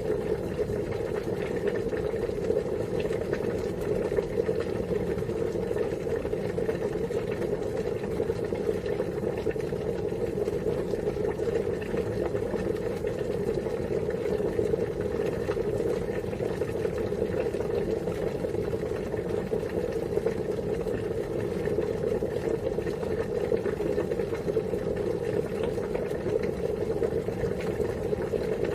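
Water boiling steadily, a continuous even bubbling that never changes in level.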